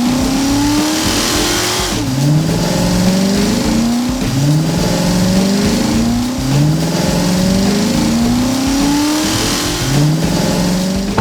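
Cartoon sound effect of a car engine revving up over and over, a rising note about every two seconds.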